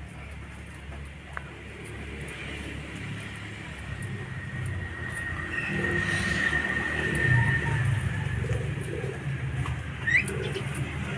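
Birds calling: soft, repeated dove-like cooing, a long steady whistle in the middle and a short rising chirp near the end, over a low background rumble.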